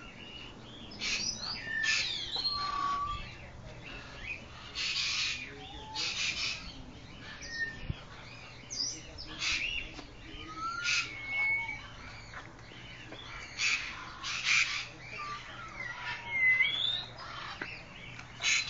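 Birds chirping and calling: short whistled notes and sliding calls, mixed with repeated harsh, squawking calls about half a second long.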